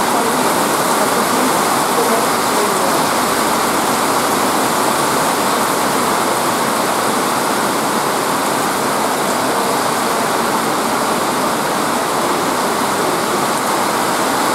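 Heavy downpour: a steady, dense hiss of rain pelting the wet paved platform.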